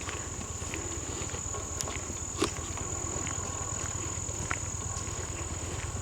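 Steady high-pitched chirring of crickets, over a low rumble of handheld-camera handling, with scattered small clicks and one sharper knock about two and a half seconds in.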